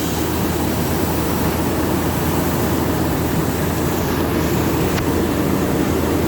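Heavy diesel machinery running loudly and steadily while a truck is loaded. The noise builds up just before and then holds level.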